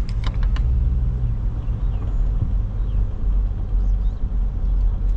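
Car driving: a steady low rumble of engine and road noise heard inside the cabin, with a few faint clicks in the first second.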